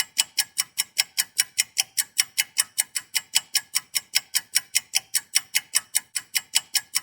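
A ticking sound effect: sharp, evenly spaced ticks, about five a second, bright and clicky.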